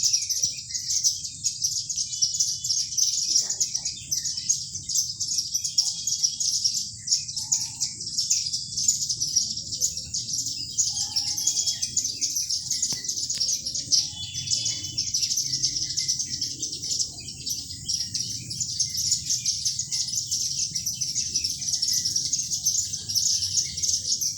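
Many small birds chirping at once in a dense, continuous chorus of rapid high tweets, over a faint low background rumble.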